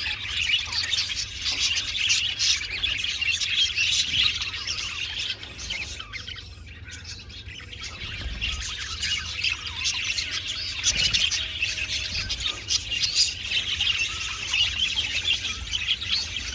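A flock of budgerigars chattering and warbling, many overlapping chirps and squawks at once, dipping briefly about six seconds in before picking up again.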